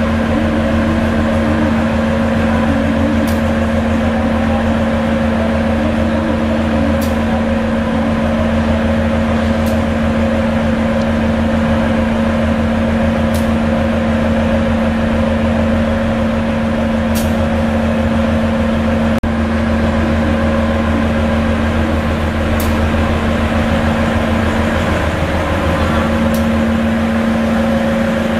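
Cummins QSK45 V12 diesel engine of a KRDE ME201 diesel-electric train, driving its alternator and running at a steady speed, heard mostly as its exhaust note. Steady low hum with a constant higher drone over it.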